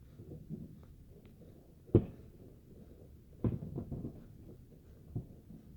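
Distant fireworks going off: a sharp bang about two seconds in, another about a second and a half later followed by a short string of smaller pops, and a fainter bang near the end.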